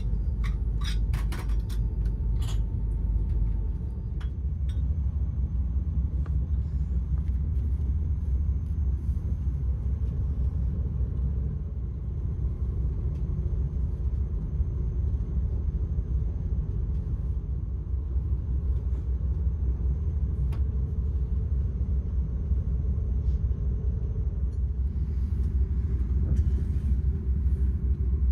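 Interior rumble of a PKP ED250 Pendolino electric train running along the line, a steady low rumble of wheels on rails heard inside the passenger car. A few light clicks near the start.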